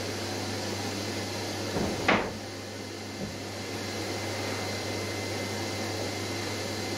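A steady background hum, with one short wooden knock about two seconds in, as sheet material is handled.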